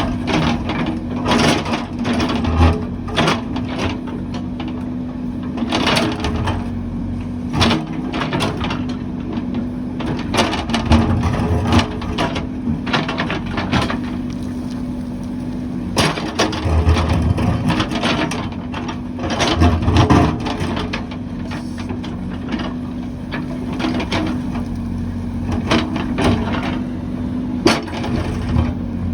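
A heavy construction machine's engine running steadily, with frequent knocks, cracks and crunching as material is broken and moved, and a few deep thuds.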